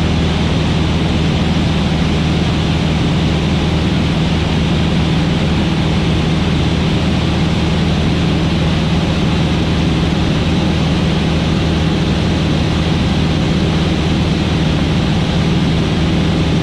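Van's RV-8 light aircraft's piston engine and propeller droning steadily in flight, heard from inside the cockpit, with a low hum under a constant rush of air and engine noise.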